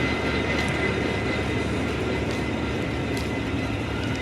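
A train running close by: a steady, dense rumble of engine and wheels, with a faint high whine that fades away partway through.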